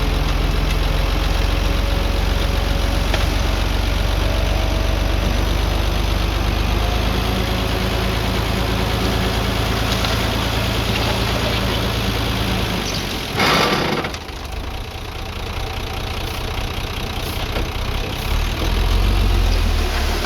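Heavy diesel engine of earthmoving machinery running steadily. About two-thirds of the way through comes a sudden loud noisy burst lasting about half a second; after it the engine sound drops, then swells again near the end.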